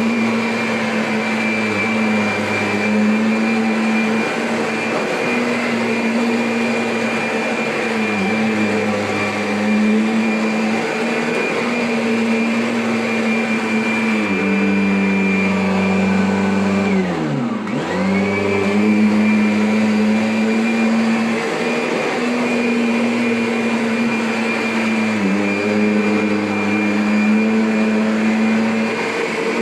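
Kirby upright vacuum cleaner running with a steady motor hum and a high whine. The motor's pitch dips a few times, and about 17 seconds in it slides well down and quickly climbs back to full speed.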